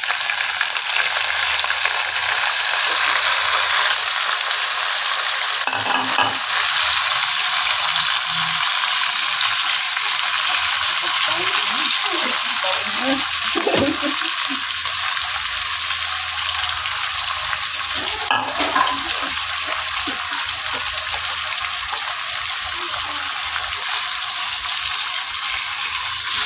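Pieces of pekasam (fermented fish) frying in hot oil with spices in a pan: a steady, dense sizzle. A spatula stirs and scrapes through it a couple of times.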